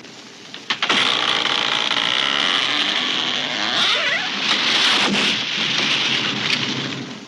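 A tree crashing down: a sudden loud onset about a second in, then several seconds of crashing through branches with sharp cracks and snaps scattered through it, dying away near the end.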